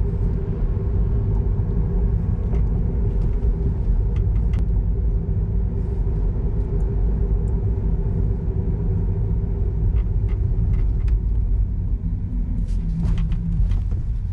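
Steady low road and engine rumble of a car being driven, heard from inside the car, with a few faint clicks near the end.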